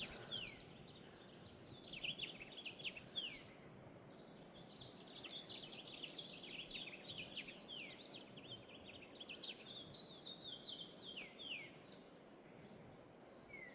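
Small birds chirping: a steady run of short, quick, downward-sliding chirps, busiest in the middle, over a faint steady outdoor hiss.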